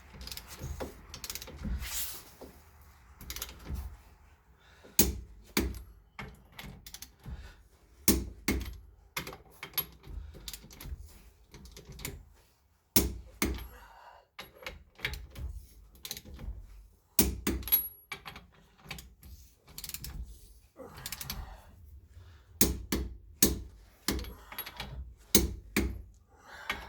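Hand tools working the lug nuts on a car wheel: an irregular string of sharp metallic clicks and knocks, sometimes several a second, with short pauses between runs.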